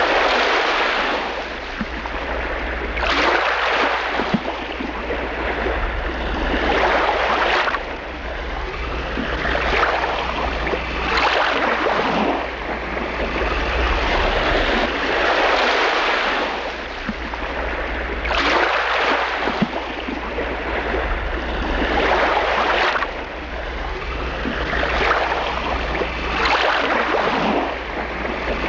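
Waves washing in on a shore, a surge of water noise every three or four seconds, over a steady low rumble of wind on the microphone.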